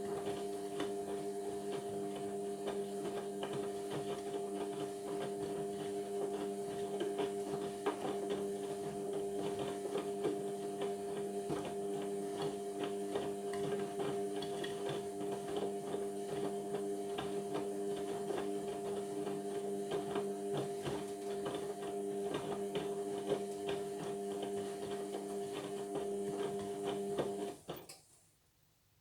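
Indesit washing machine humming steadily with light rattling over the hum, stopping abruptly near the end.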